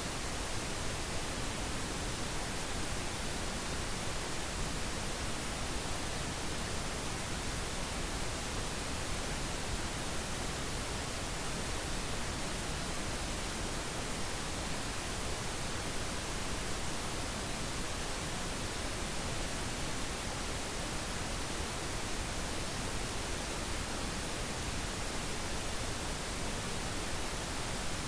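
Steady pink noise: an even, unbroken hiss spread across all pitches, with no tones or changes.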